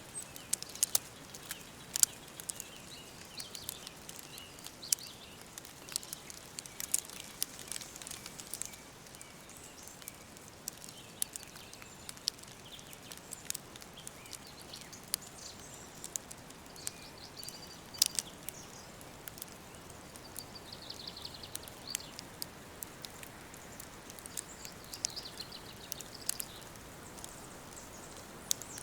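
Woodland birds chirping and calling over a steady soft hiss, with frequent sharp crackles and snaps. The loudest snaps come about two seconds in and at about eighteen seconds.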